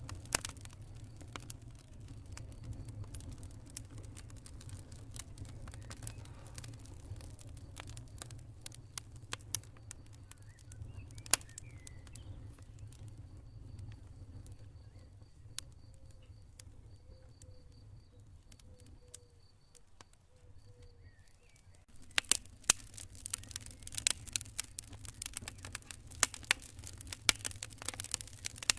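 Campfire burning: irregular crackles and sharp pops over a low steady rumble of the flames. The crackling thins out through the middle, with faint, evenly pulsed insect chirping like crickets, then comes back suddenly denser and louder about two-thirds of the way in.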